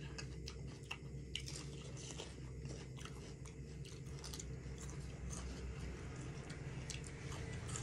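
A person chewing mouthfuls of chicken biryani, with many small clicks and crunches, over a steady low hum.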